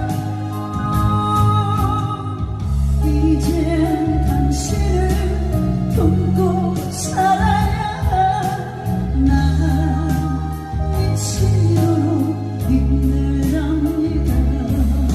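A singer performs a slow Korean ballad, holding wavering notes over sustained bass and instrumental accompaniment.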